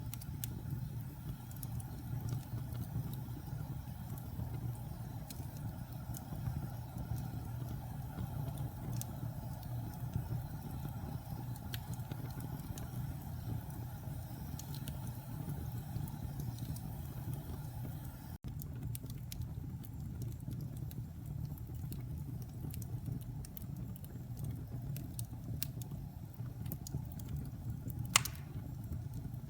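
Wood fire burning in a fireplace: a steady low rumble with scattered crackles and small pops, and one sharper, louder pop near the end. The sound cuts out for an instant about two-thirds of the way through.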